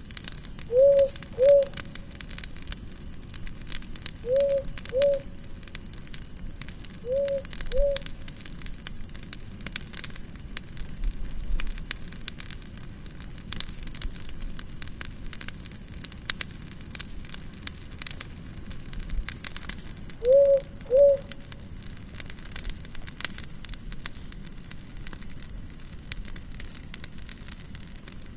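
Wood campfire crackling and popping steadily. Four times, a short two-note call rises and falls over it, louder than the fire.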